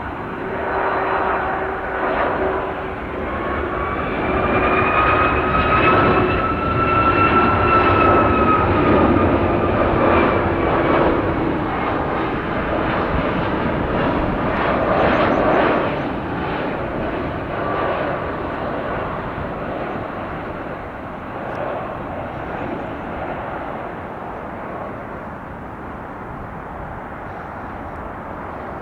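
Boeing 757-200F freighter's jet engines on its landing run: a broad rumble with a whine that bends up and then down in pitch, loudest about a quarter of the way in, then slowly easing to a steadier, quieter rumble.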